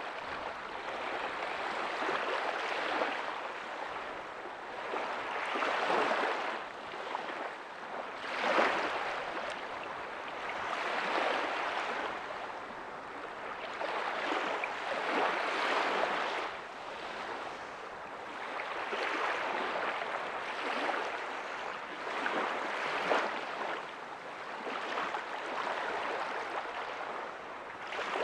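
Small ocean waves breaking and washing up a beach, a steady hiss of surf that swells and falls back every two to three seconds.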